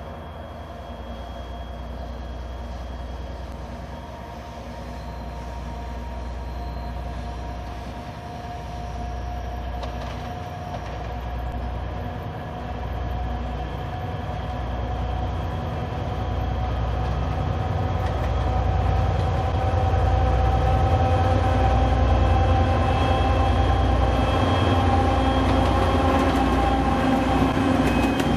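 Two-section 2M62U diesel locomotive's two-stroke diesel engines running as it approaches, growing steadily louder, with a deep rumble and a steady whine above it.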